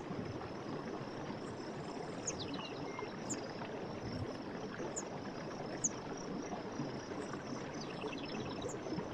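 Stream water running steadily, with small birds chirping over it: short high chirps repeating about once a second, and a brief trilled phrase about two seconds in and again near the end.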